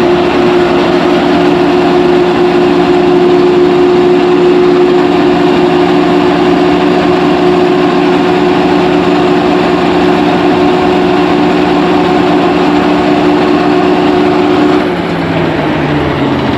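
Engine running steadily at a constant high speed, then slowing down near the end with its pitch falling.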